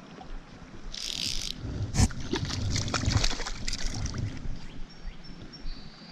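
Water splashing and sloshing in a stream as a hooked trout is brought in, with a brief hiss about a second in and a sharp knock about two seconds in, then a run of irregular splashes.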